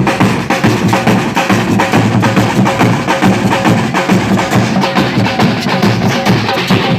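Samba percussion ensemble (batucada) playing a fast, driving rhythm: deep drums under a dense stream of quick, even strokes.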